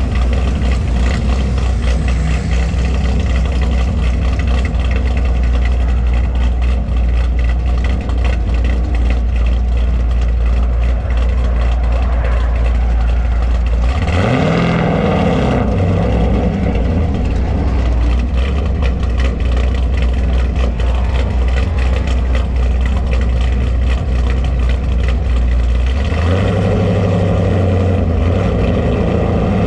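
A car's V8 engine running steadily at low revs. About halfway through, its pitch rises as it picks up speed, and it changes again near the end with another rise.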